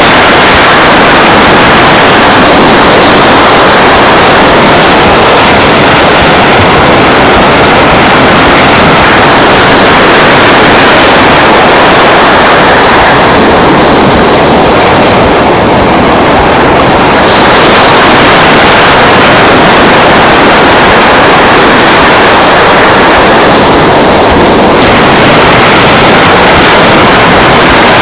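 Loud, steady rush of surf and wind on a beach shoreline, thinning briefly about halfway through before swelling again.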